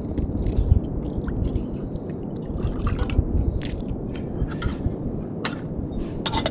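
Steady low rumble of strong wind, with scattered light clicks and taps over it.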